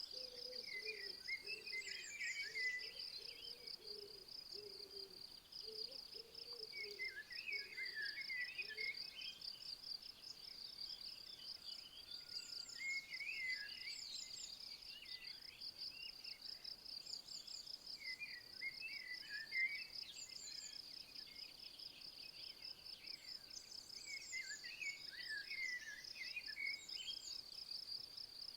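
A continuous high-pitched insect trill, a fast steady pulsing like a cricket's, with a songbird singing a short warbled phrase about every six seconds over it. Fainter low calls sound during the first third.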